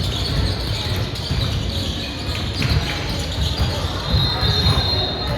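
Basketballs bouncing on a hardwood gym floor amid crowd chatter. A short high-pitched tone sounds about four seconds in.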